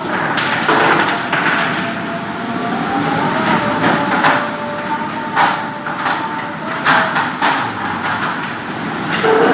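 Rainstorm with strong wind: a steady rushing of wind and rain, broken by half a dozen irregular knocks and bangs.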